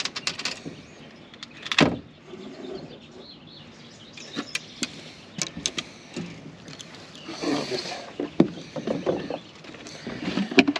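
Fishing gear being handled in a boat: scattered clicks and knocks, with one loud knock about two seconds in.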